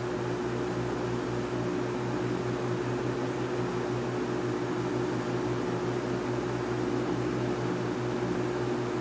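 1971 Monarch Aire 20-inch box fan running steadily, still dirty and unserviced: a constant motor hum with a steady tone over the rush of moving air.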